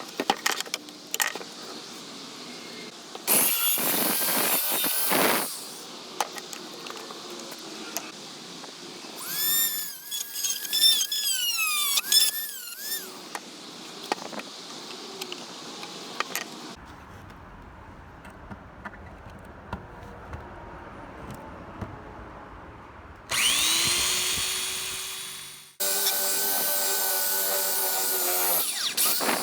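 Handheld power tool on a rusty steel toy truck, run in several separate bursts with a high whine. In the middle burst the pitch wavers up and down as it loads and unloads; a later burst rises in pitch, fades and cuts off, and a steady run follows near the end. Small clicks and handling knocks come between the bursts.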